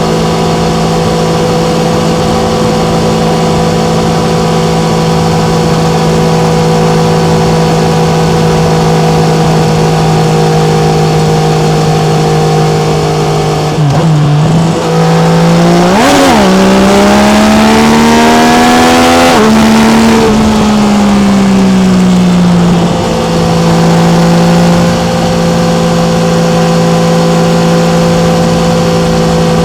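Yamaha MT-09's 847 cc three-cylinder engine at a steady cruise. About halfway through it dips briefly, then revs up hard with a climbing pitch through a gear. It eases off, and the pitch falls back to the steady cruising note.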